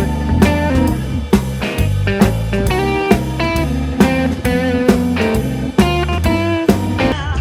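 Guitar-led band music with electric guitar, bass and drum kit, in a bluesy style with a steady beat of a little over two drum strikes a second.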